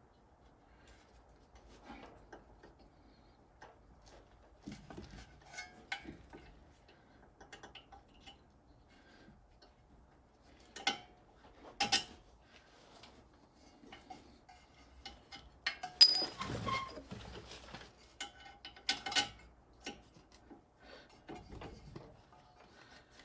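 Scattered metallic clinks and knocks as the lower ball joint bolt is worked into the steering knuckle of the front suspension, with a louder clatter about two-thirds through. The bolt is not sliding back in easily.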